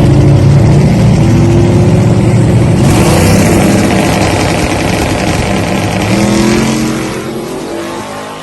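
Drag car's engine at full throttle down the strip: loud, its pitch climbing in steps as it shifts through the gears, then fading as the car pulls away near the end.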